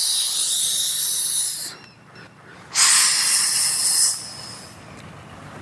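A person hissing like a snake in imitation: two long hisses, the first ending a little under two seconds in and the second about a second after that, lasting just over a second.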